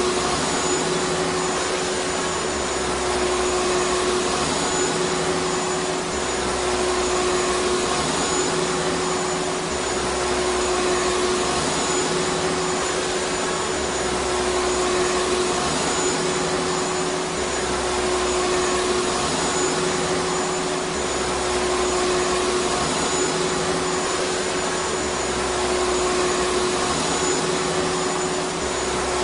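Vacuum cleaner motor running steadily: a continuous rush of air with a steady whine in it. A low hum swells and fades about every three and a half seconds.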